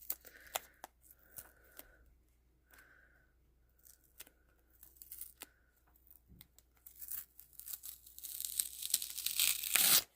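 Handling clicks on a plastic DVD case, then tearing that builds over the last three seconds and is loudest near the end.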